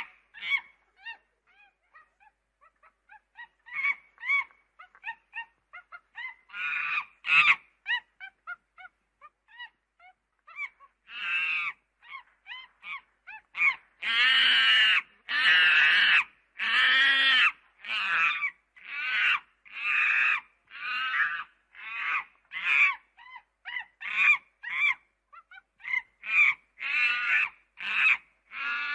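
A monkey calling over and over: scattered short, quieter calls at first, then from about halfway a steady run of loud, longer calls, about one a second.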